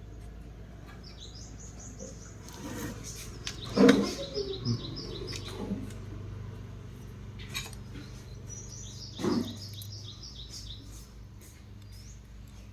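A small bird chirping in quick runs of high, repeated notes, three times. A few knocks and clatters come with it, the loudest about four seconds in, over a low steady hum.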